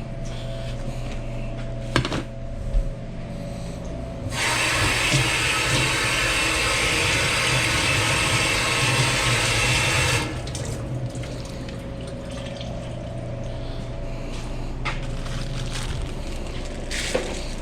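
Water running hard from a kitchen tap for about six seconds, starting about four seconds in and shutting off abruptly, over the steady hum of kitchen equipment. Two sharp knocks sound before the water starts.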